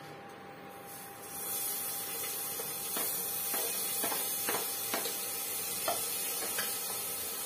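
Chopped green chillies dropped into hot mustard-oil tempering in a pan, the oil starting to sizzle with a steady hiss about a second in. A spoon taps against the plate and pan several times.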